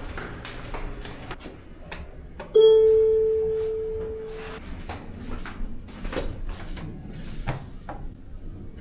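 A single bell-like chime about two and a half seconds in, one clear tone that fades out over about two seconds, among scattered clicks and knocks.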